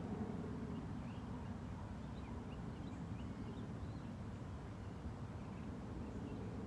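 Faint bird chirps, a scatter of short high calls in the middle, over a steady low outdoor rumble.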